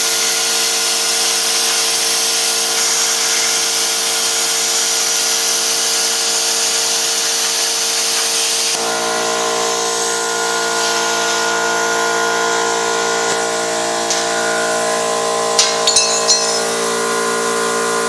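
CNC plasma cutter running, its torch arc and air giving a loud, steady hiss over a hum of steady tones. About nine seconds in the hiss cuts off suddenly and the steady hum carries on, with a few short clicks near the end.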